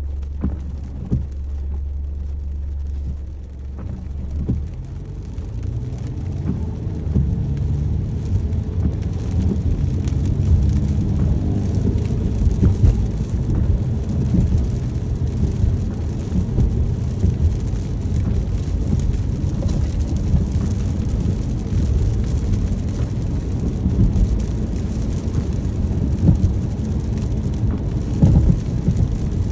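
A car's engine and tyres from inside the cabin, heard with rain on the car. A low steady hum for the first few seconds, then the car pulls away and gathers speed, settling into a steady road rumble with a faint hiss of rain.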